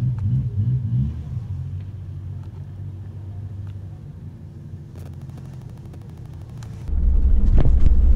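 Off-road vehicle engines idling in a queue, a steady low hum heard from inside the car's cabin. About seven seconds in it switches abruptly to a much louder low rumble of the car driving along a rutted dirt track.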